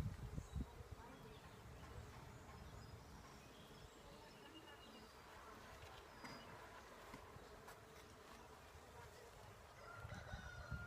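Honeybees buzzing faintly around an open hive as its frames are inspected, with a few soft low knocks at the start.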